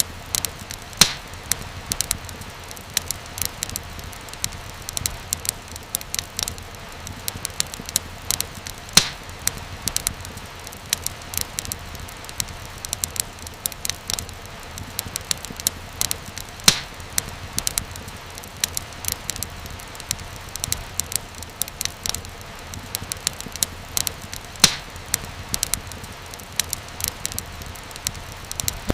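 Wood fire crackling in a fireplace: a steady low rush with constant small clicks and snaps, and a louder pop every few seconds.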